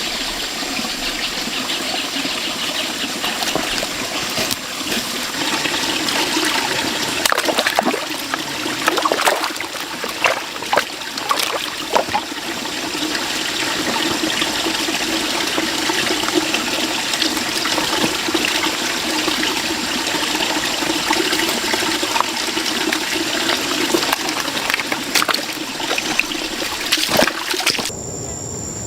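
Running, splashing water with scattered knocks and clicks, over a thin steady insect tone. About a second before the end the water stops abruptly, leaving the insect drone.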